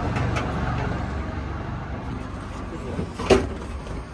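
Steady low hum of a running engine, with one sharp knock a little after three seconds in.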